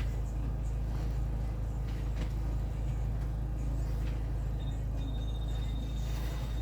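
Lister Petter PH2 two-cylinder air-cooled diesel on a Barford dumper truck, running steadily.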